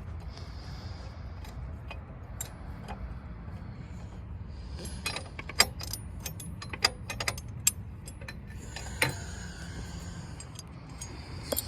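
Hand tools and loose steel bolts clicking and clinking in short irregular bursts as bolts are taken off the alternator bracket of a compact track loader's engine, over a steady low hum.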